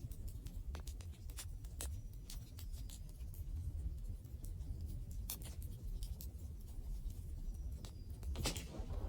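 Wood fire crackling: scattered sharp pops and snaps over a low, steady rumble of the burning, with a louder pop near the end.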